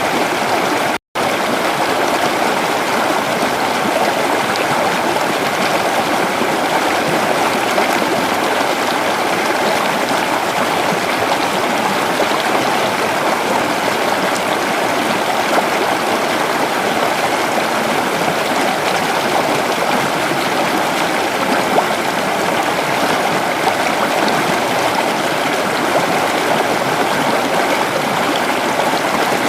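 Creek water rushing steadily. The sound cuts out completely for a split second about a second in, then carries on unchanged.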